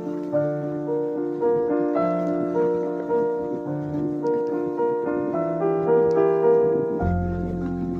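Background piano music, a gentle melody of notes played one after another, with a deeper bass note coming in near the end.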